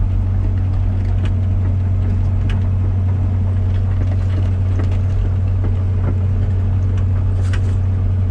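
Komatsu PC120-6 excavator's four-cylinder diesel engine running steadily with a deep, even hum, with a few short clanks of the machine working.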